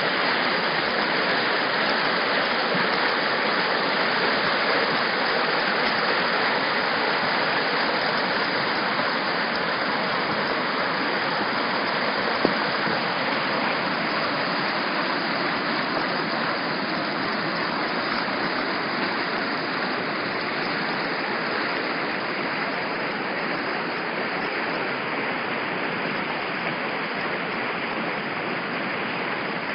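Floodwater rushing steadily down a desert wadi after night rain, a continuous rush of water, with one sharp click about twelve seconds in.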